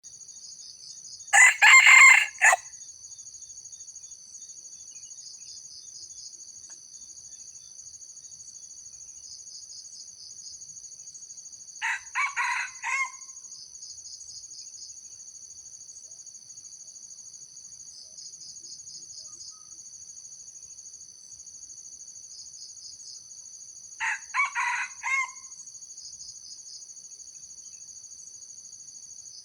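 Junglefowl rooster crowing three times, about eleven seconds apart, each a short broken crow of a few syllables; the first is the loudest and the later two fainter. A steady, pulsing high-pitched chorus of insects runs underneath.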